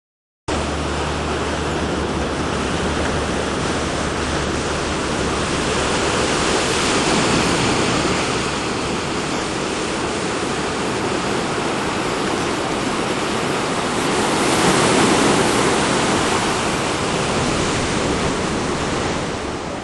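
Ocean surf washing onto the shore as a steady rush of water noise, growing louder as waves break about 7 and 15 seconds in.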